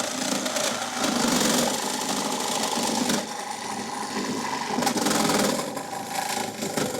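Makita power saw cutting through the steel of a car's radiator core support, running steadily with the noise surging and easing as it bites.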